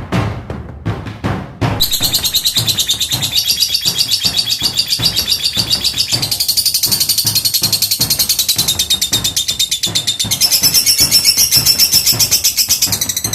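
Lovebird ngekek: after a few low thumps, a long unbroken run of rapid, high chattering notes starts under two seconds in and keeps going without a break. This is the frantic nonstop chatter called 'konslet', brought on by the bird being separated from the mate it had been paired with.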